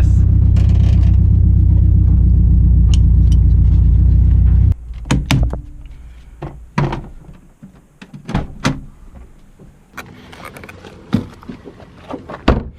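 A 2002 Subaru WRX's turbocharged flat-four with a straight-pipe exhaust idling loud and steady, then cutting off suddenly about five seconds in. A scattering of sharp clicks and thunks follows.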